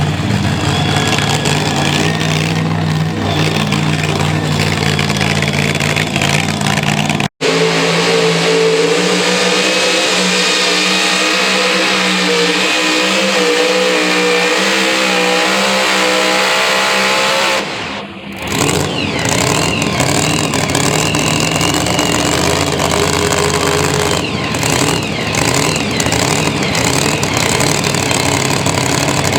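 Pulling truck's engine running hard at high revs under load, cut by a momentary dropout about a third of the way in, then dipping briefly just past halfway before running on with a different tone.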